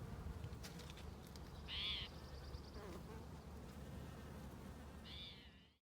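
A bird gives a short call twice, about three seconds apart, over a steady low rumble. The sound cuts off abruptly just before the end.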